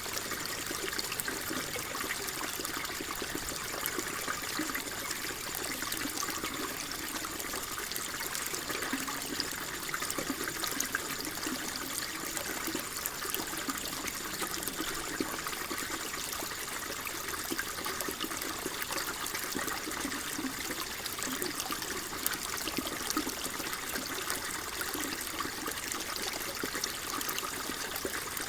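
Water flowing and trickling steadily, a constant babbling with fine splashing.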